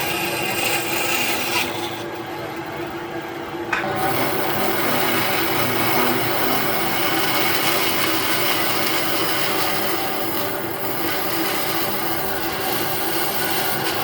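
A tool rasping steadily against wood. It eases off for a couple of seconds early on, then picks up again.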